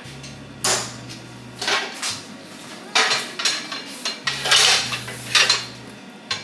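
Cookware clattering as pots and pans are handled: a series of hard knocks and scrapes, busiest in the second half, with a low hum twice underneath.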